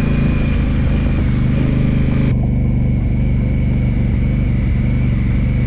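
Honda Africa Twin motorcycle engine running at a steady speed as the bike is ridden along a dirt road.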